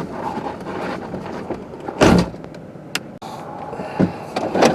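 Car door and interior handling noises: a heavy thud about two seconds in, a sharp click about a second later, and more knocks near the end.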